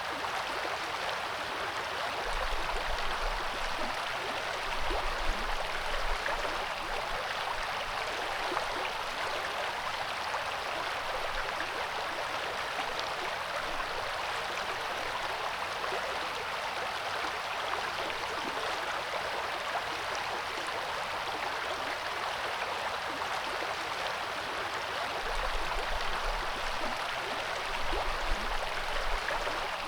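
Coeur d'Alene River flowing with a steady rush of water, with two short spells of low rumble, one a few seconds in and one near the end.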